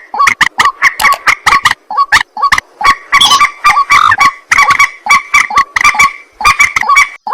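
White-breasted waterhen (ruak-ruak) calling: a loud, rapid, nearly unbroken run of harsh repeated croaking notes.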